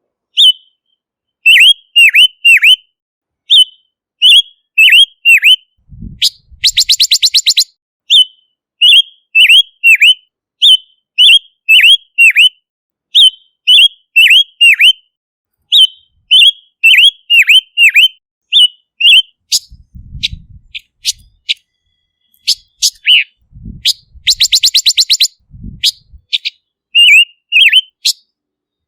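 Silver-eared mesia singing: a steady string of short, sharp whistled notes, each dipping in pitch, about two a second. The string is broken twice by a fast rattling trill lasting about a second.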